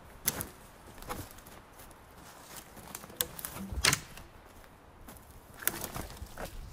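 A few irregular sharp knocks and clicks over a low hiss, the loudest about two thirds of the way through.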